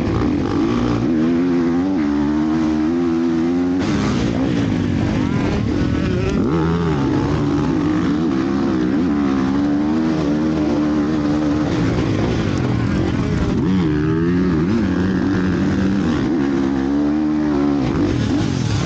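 Motocross motorcycles racing, their engines revving up and dropping back again and again as the riders shift gears and throttle through the track, with more than one engine heard at once.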